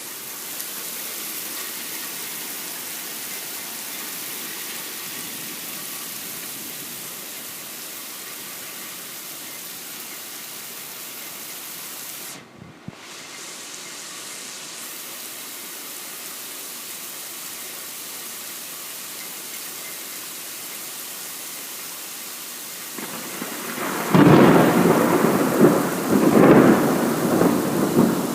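Steady rain hissing down, then near the end a loud clap of thunder that rolls and rumbles in two big surges.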